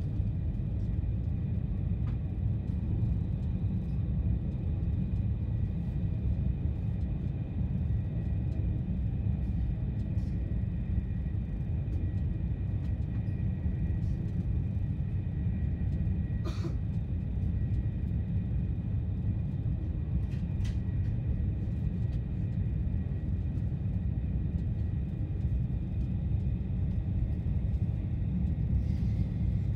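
Steady low rumble inside a high-speed electric multiple-unit train cruising at about 200 km/h, with a faint steady whine above it and two brief faint ticks around the middle.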